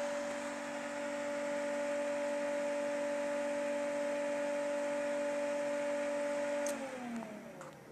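Electric fan motor running with a steady hum. Near the end there is a sharp click, and the hum falls in pitch and fades as the fan is switched off and spins down.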